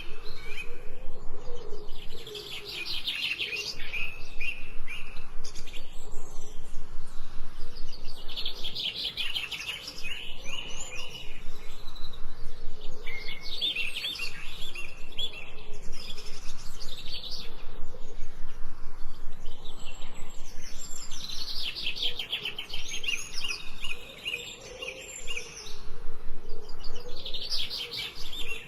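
Songbirds chirping in bouts of rapid, closely repeated high notes, each bout lasting a few seconds with short pauses between, over a fainter lower hum.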